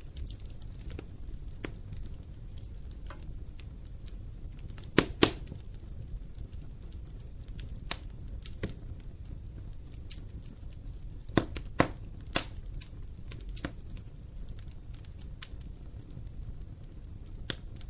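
Wood fire in an open fireplace crackling: irregular sharp pops and snaps over a low steady rumble, with a few louder pops about five seconds in and again around eleven to twelve seconds.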